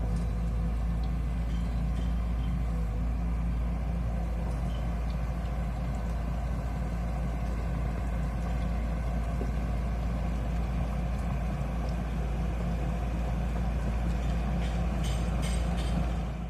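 Kobelco SK200 hydraulic excavator's diesel engine running steadily with a low drone, with a few light clicks near the end.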